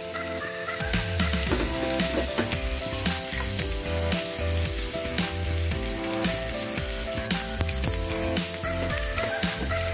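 Salted fish, garlic cloves and ginger slices sizzling steadily as they fry in hot oil in a ridged grill pan.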